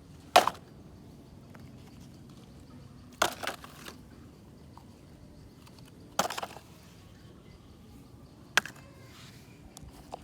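Toy vehicles being dropped into a collecting basket: four short clattering knocks about three seconds apart, over a faint steady outdoor background.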